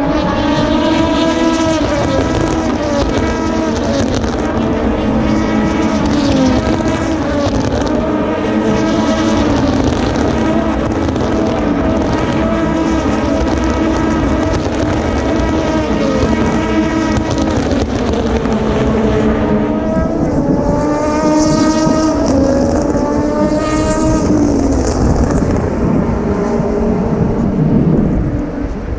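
A continuous stream of Le Mans endurance race cars accelerating out of a corner one after another. Overlapping engine notes keep rising in pitch through the gears.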